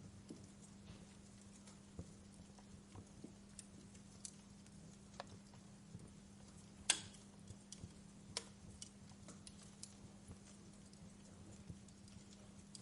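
Wood fire crackling in a fireplace: sparse, irregular pops and snaps, the loudest a sharp pop about seven seconds in, over a faint steady low hum and hiss.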